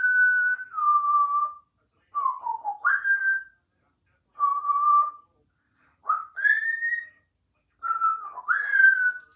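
African grey parrot whistling: five short phrases of clear notes, some held level, some sliding down and others swooping up, with short pauses between.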